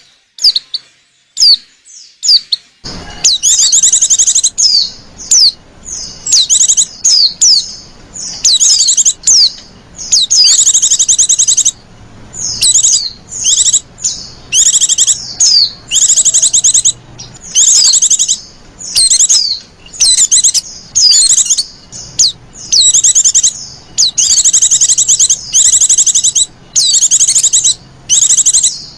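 Female white-eye (pleci) giving rapid, high-pitched twittering chirps in short repeated bursts of about a second each, with brief pauses between: a lure call used to attract other white-eyes.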